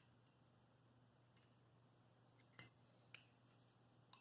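Near silence, broken about two and a half seconds in by one sharp metal clink, with a fainter tick just after: small metal tools or parts handled on a workbench.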